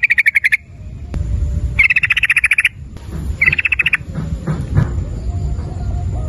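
Sooty-headed bulbul (trucukan) giving fast clicking rattles in three short bursts, each a quick run of about a dozen even clicks, over a low background rumble.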